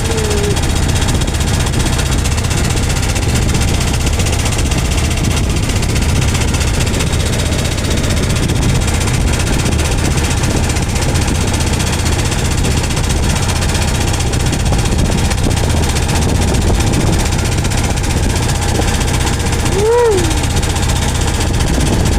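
Strong wind buffeting the microphone: a loud, steady rumble heaviest in the low end. A short rising-then-falling tone cuts through near the end.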